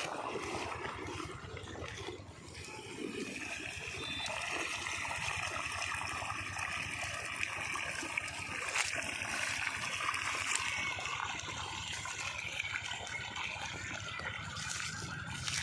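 Water gushing steadily from the outlet of an 8 hp diesel engine water pump set, with the diesel engine running in a fast, even low pulse underneath.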